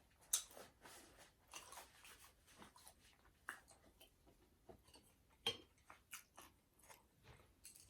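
Quiet close-up chewing of ramen noodles and dumplings: soft, irregular mouth clicks and small wet smacks. The sharpest click comes right at the start, with a few more about midway.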